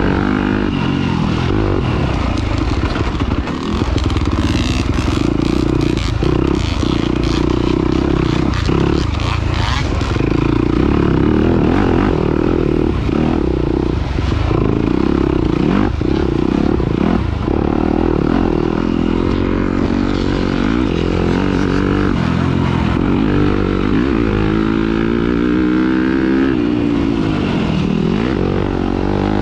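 Off-road racing engine running hard, its pitch rising and falling with the throttle, with repeated swings of revving near the end. Clattering and scraping strikes over the engine in the first third.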